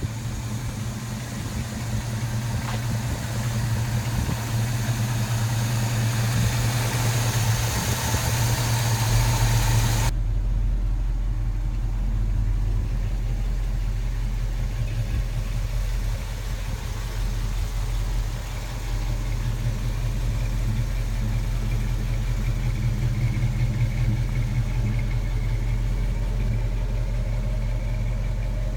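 1972 Chevrolet K10's 350 V8 running steadily through its dual exhaust. A hiss over it drops away suddenly about ten seconds in.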